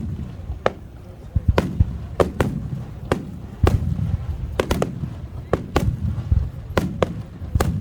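Aerial fireworks shells bursting in quick, irregular succession: about fifteen sharp bangs, each trailing off in a low rumbling echo.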